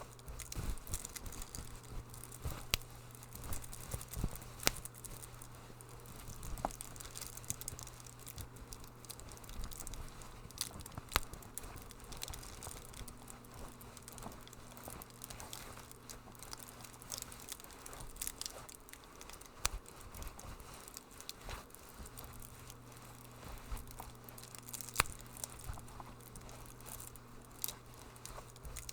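Wood fire crackling in a fireplace: irregular sharp pops and snaps over a soft hiss. Under it runs a low steady hum that drops out for a few seconds past the middle.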